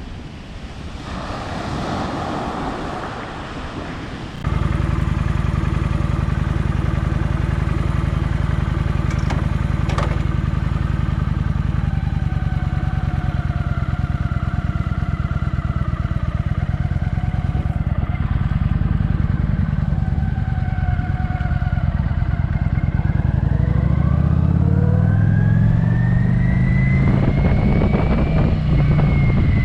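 Kawasaki Vulcan motorcycle engine running steadily on the road. It comes in suddenly about four seconds in, after a softer rush of noise, and rises in pitch near the end as the bike accelerates.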